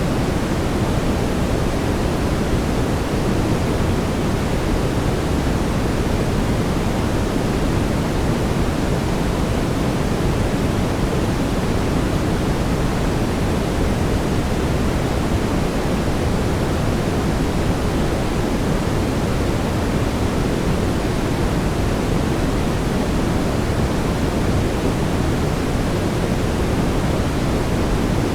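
Steady brown noise: an even, unchanging rushing hiss with most of its weight in the low end.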